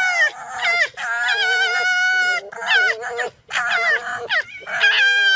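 Two red foxes screaming at each other in a run of about six high, wavering cries. One long held cry comes about a second in.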